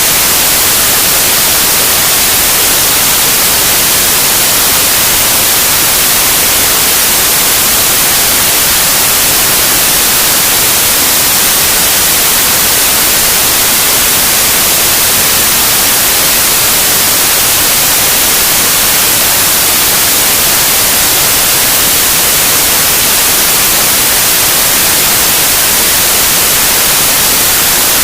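Loud, steady white noise: an even, unchanging hiss.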